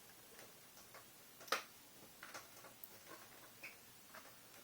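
Faint, scattered light clicks and taps, the sharpest about a second and a half in: test probes being placed on contacts of a TV's LED backlight strip.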